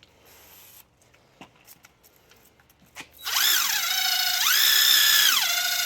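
Electric drill spinning a nylon scrub brush attachment, starting about three seconds in with a loud motor whine that drops in pitch, rises again, then drops once more. Before it, a few faint clicks and rubs.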